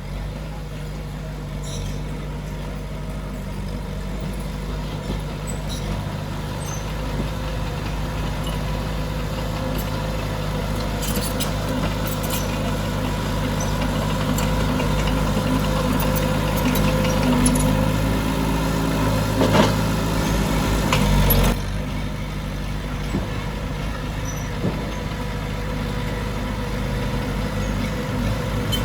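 Diesel engine of heavy earthmoving machinery running, growing louder over about twenty seconds and then dropping back suddenly, with a few scattered metallic clanks.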